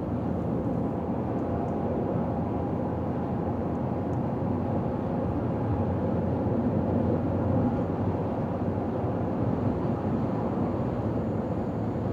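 A car driving at steady highway speed: a constant low rumble of engine and tyre noise.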